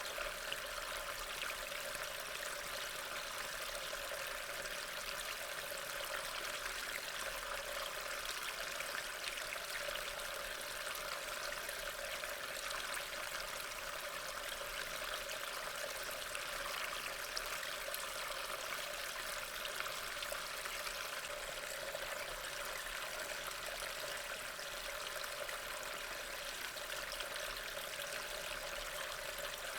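Steady rain ambience: an even hiss of falling rain with fine pattering drops, unchanging throughout.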